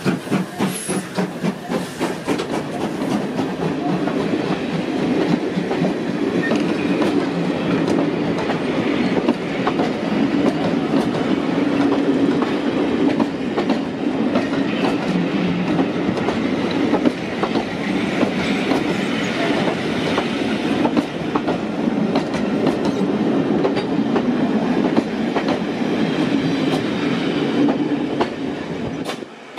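Passenger train hauled by GWR Manor-class 4-6-0 steam locomotive 7822 Foxcote Manor running past at close range. There is a rhythmic beat for the first couple of seconds as the locomotive goes by, then the steady rumble and clickety-clack of the coaches' wheels over the rail joints. The sound falls away sharply near the end as the last coach passes.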